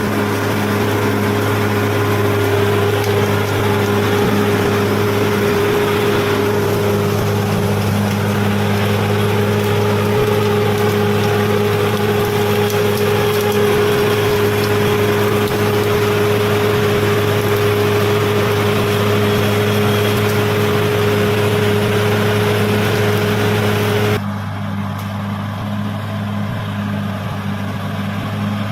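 Bulldozer's diesel engine running steadily under a noisy mechanical din. About 24 seconds in the sound changes abruptly, turning duller and a little quieter.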